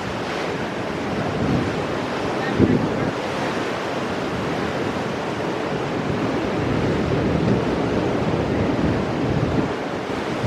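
Ocean surf breaking against rocks: a continuous rush of waves, with a brief louder surge about two and a half seconds in.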